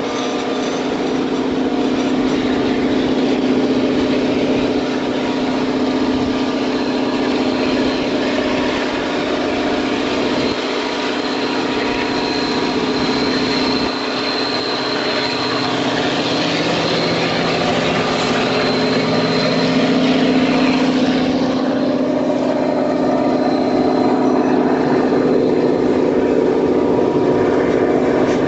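Diesel locomotive hauling a passenger train, its engine running with a steady drone over the noise of wheels on the rails and rushing air, heard from a carriage window. The engine note shifts for a few seconds past the middle.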